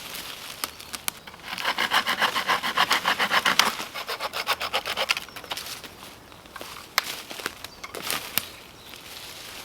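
Hand saw cutting through wood in a quick run of even strokes lasting a few seconds, then a few slower strokes and scattered sharp knocks.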